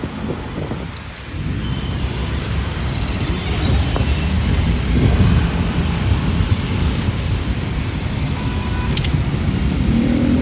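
Steady road traffic: cars and other vehicles running past on a busy road, a continuous low rumble.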